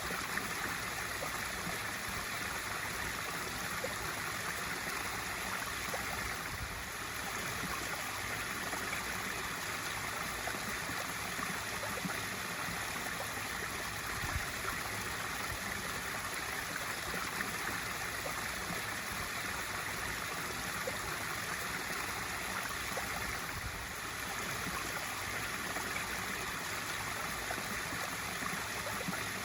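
Swimming-pool waterfall feature: water pouring and splashing steadily into the pool, with a brief slight dip in the flow twice.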